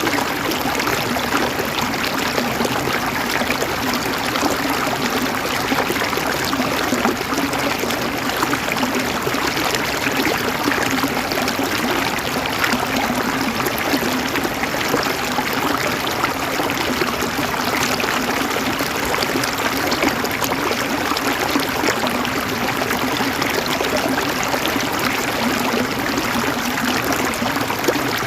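River water flowing over stones, a steady, even rush and babble of a stream with no breaks.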